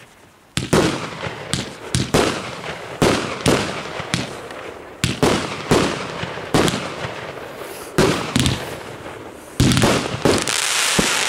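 Fireworks display: aerial shells bursting one after another, a sharp bang every half second to a second, each fading off. Near the end the separate bangs give way to a loud continuous crackling hiss.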